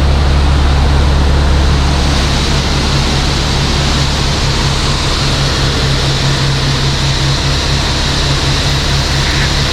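Semi truck's diesel engine idling steadily with a deep hum, under an even rushing noise of machinery.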